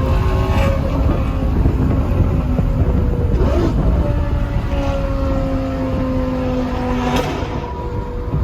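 Lamborghini Gallardo Superleggera's 5.0-litre V10 with aftermarket exhaust running under way, heard from inside the car. Its pitch holds mostly steady and sags slightly in the second half. Three short sharp cracks cut through it: near the start, in the middle and near the end.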